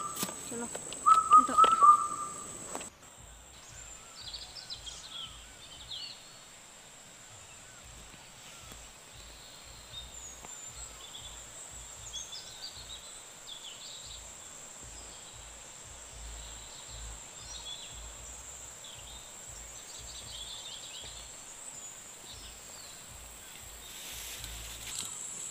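Two short bursts of loud whistling at the start. After a cut, rural outdoor ambience follows: small birds chirping on and off over a steady high thin tone, with intermittent low wind rumble on the microphone.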